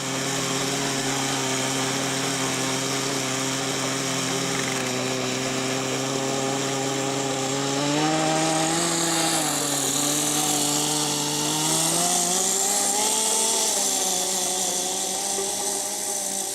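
Small Kyosho GX15 nitro engine running with a steady buzz, its pitch rising about eight seconds in, dipping, then rising again a few seconds later as the throttle changes.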